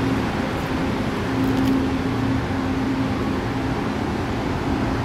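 Steady low mechanical hum and whir from a passenger train standing at the platform, its on-board machinery running, with a low tone that drops out and returns every second or so.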